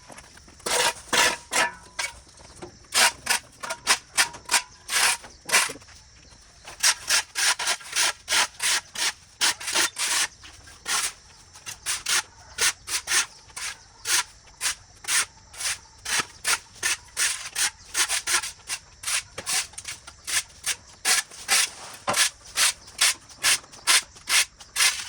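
Rhythmic scraping strokes of a hand tool on ground litter, about two a second, in runs with short pauses.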